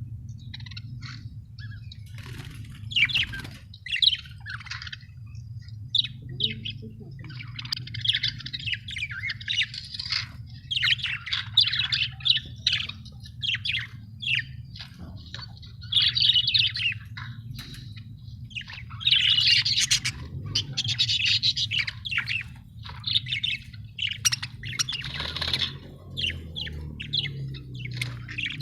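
Budgerigars chirping and chattering in a busy, irregular stream of short, high calls, with denser bursts every few seconds. A steady low hum runs underneath.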